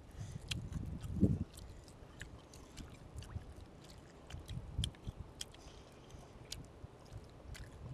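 Children chewing and smacking their lips while eating with their hands: irregular soft wet clicks, with a dull low bump about a second in.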